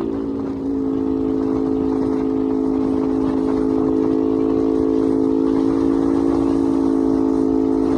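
Ducati Streetfighter motorcycle engine running at steady revs while cruising, its note shifting slightly about a second in, with wind rumble underneath.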